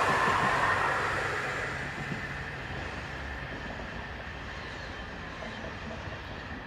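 Tram running on its rails, heard from on board. A loud, higher-pitched rail noise with ringing fades away over the first two seconds, leaving a steady lower rumble.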